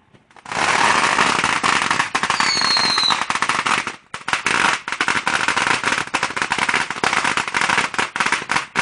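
A string of firecrackers going off, a long rapid run of sharp bangs with a brief break about four seconds in; it is loud.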